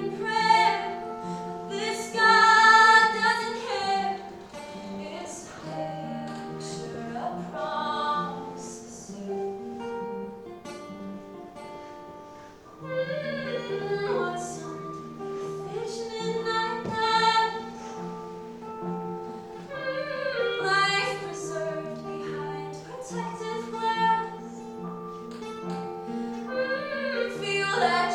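Female voice singing over plucked guitar accompaniment. The music softens about ten seconds in, then the singing returns.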